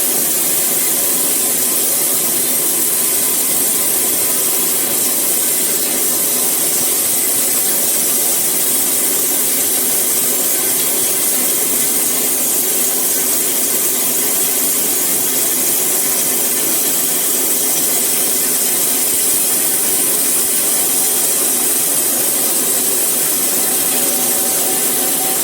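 Sawmill saw cutting through eucalyptus wood: a loud, steady, unbroken sawing noise, strongest in the high treble.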